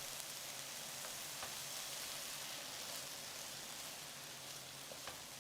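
Vegetables sizzling faintly in olive oil in a frying pan as they are stirred, a steady hiss with a few light clicks.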